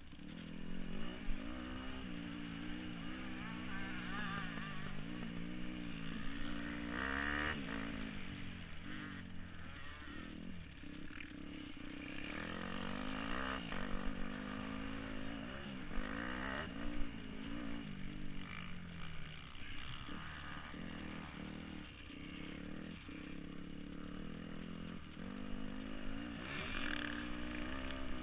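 Dirt bike engine revving up and down over and over, its pitch rising and falling with the throttle.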